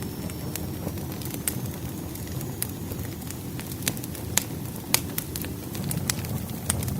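Firewood burning in a fireplace: a steady low rumble of flames with irregular sharp crackles and pops, the loudest about four and a half and five seconds in.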